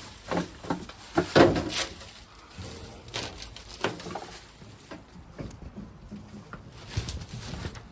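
Several separate sharp knocks and clunks from the hood of an old Ford F800 truck being worked to get it to shut, the loudest about one and a half seconds in.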